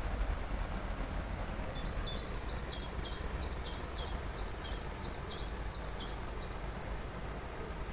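Steady rush of falling water, with a songbird singing a quick run of about a dozen high repeated notes from about two seconds in until past the middle.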